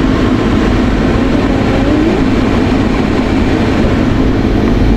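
Steady running noise of a vehicle heard from inside the cabin as it moves slowly while being turned around to park.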